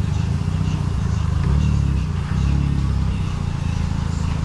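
Daihatsu Copen's small 660cc turbo engine running under way with road noise, a steady low drone whose note shifts a couple of times as the car is driven.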